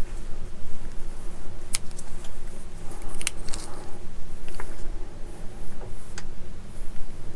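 Small plastic model-kit parts being handled and pressed together: a scattering of light clicks and taps, about six in all, over a steady low background hum.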